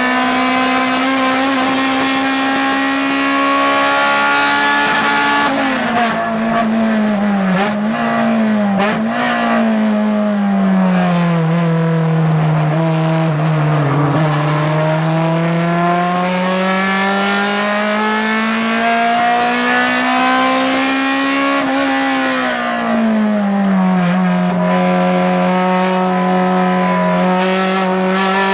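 Acura RSX Type S race car's four-cylinder engine, heard from inside the stripped, roll-caged cabin at high revs. Its pitch drops and wobbles through downshifts under braking about six seconds in, sinks lowest through a corner, climbs steadily as it accelerates out, and drops again with another braking downshift near the end.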